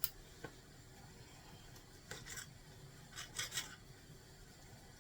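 A knife cutting a small piece of cooked chicken breast: a click at the start, then two short bursts of scraping strokes about two and three and a half seconds in.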